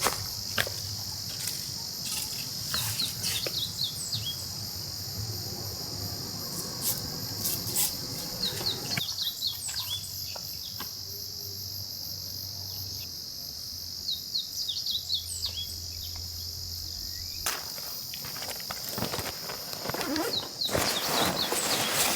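Steady, high-pitched insect chorus droning throughout, with short bird chirps now and then. Rustling and light knocks come in during the last few seconds.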